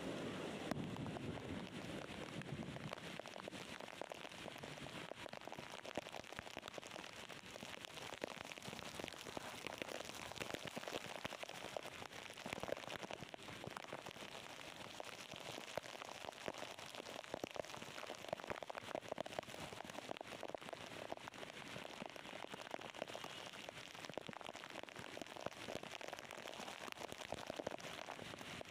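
Steady heavy rain falling, a constant hiss thick with the small ticks of drops hitting surfaces.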